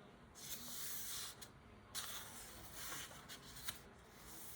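Pages of a paperback coloring book being turned: two soft paper swishes, about half a second in and again about two seconds in, with a few light taps of paper and hands.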